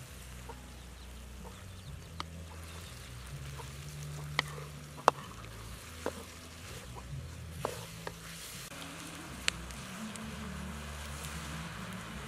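Chopped greens in sauce sizzling in a metal wok over a wood fire, stirred with a wooden spatula, with about half a dozen sharp clicks from the spatula against the wok or the fire, the loudest about five seconds in.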